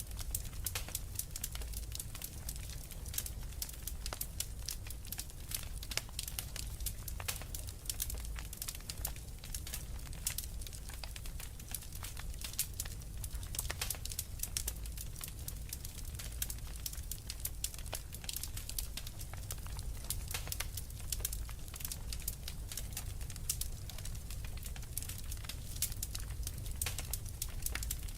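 Wood fire crackling in a fireplace: many small sharp pops and snaps at an irregular, busy pace over a steady low rumble.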